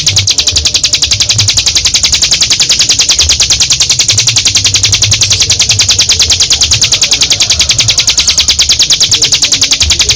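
Ciblek gunung (a prinia) giving its long, unbroken drilling trill ('ngebren'): a high, rapid, even rattle of about ten notes a second. A low rumble runs underneath.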